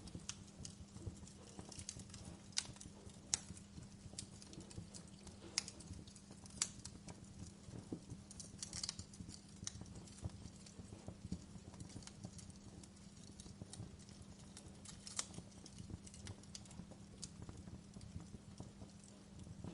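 Wood fire crackling in a fireplace: irregular sharp pops and snaps over a faint low steady hum.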